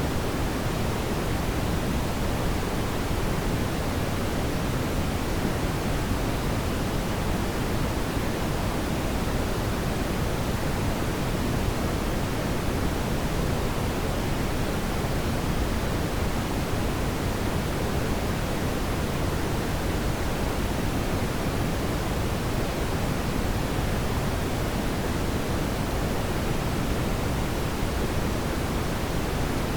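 Steady synthetic brown noise: a deep, even hiss weighted toward the low end, with no change throughout.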